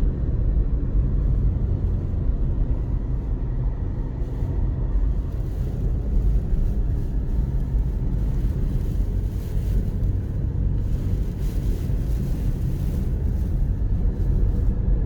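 Steady low rumble of a car driving, with road and engine noise mixed with the rush of strong sandstorm wind.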